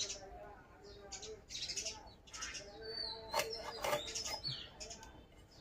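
Small birds chirping again and again in short high calls, with a couple of sharp clicks about three and a half seconds in.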